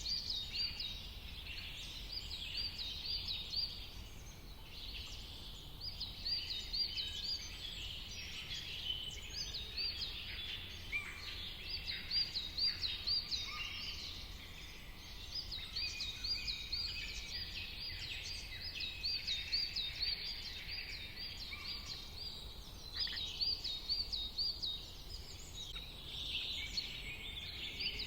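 A dawn-chorus-like mix of several songbirds chirping and singing at once: many overlapping calls, including runs of quick repeated looping notes, over a faint steady low rumble.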